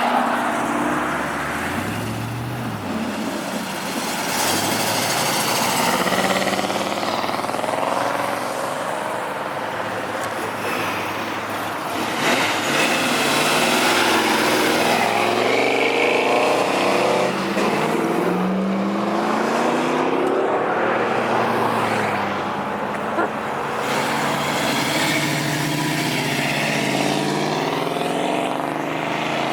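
Several car engines revving and accelerating past one after another, the engine notes sweeping up in pitch as they pull away; loudest from about twelve to seventeen seconds in.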